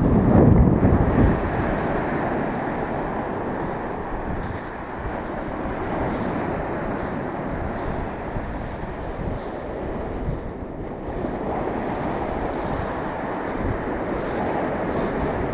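Waves of a rough sea breaking and washing on the shore, with wind buffeting the microphone; loudest in the first second or so, then a steady surge.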